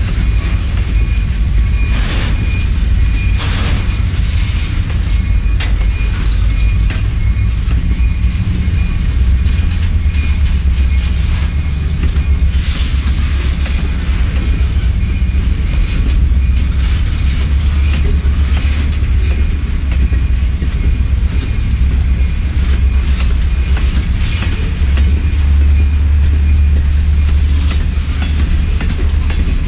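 Empty coal hopper cars of a freight train rolling past: a loud, steady low rumble of wheels on rail with occasional clacks, and a thin high whine that rises about seven seconds in and then holds.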